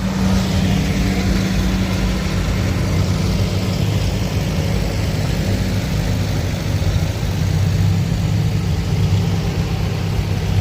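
Antique tractor engine running steadily with a low, even hum.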